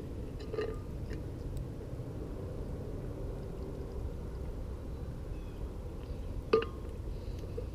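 A steady low rumble of outdoor background noise, with a few faint clicks and one sharper click or knock about six and a half seconds in.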